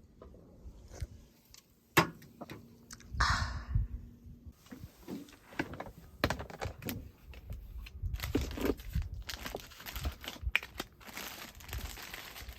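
Close handling noises: rustling and crinkling, with a sharp click about two seconds in and many small clicks and knocks through the second half.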